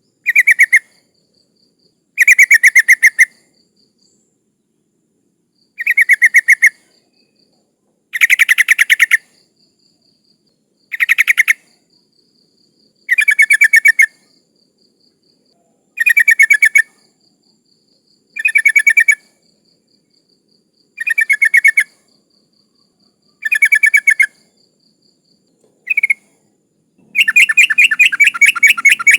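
Female sooty-headed bulbul (trucukan) calling in short bursts of rapid chattering notes, about one burst every two to three seconds, with a longer burst near the end: the call of a female in breeding condition calling to males.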